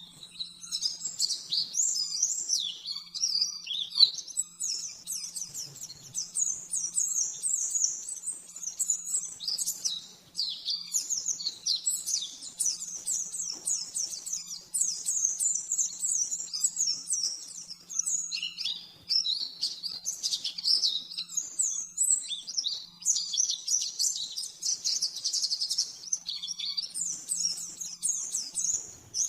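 Pleci (white-eye) songbird singing a fast, continuous high-pitched warble of rapid chirps, the 'nembak-nembak' burst song, with two brief pauses.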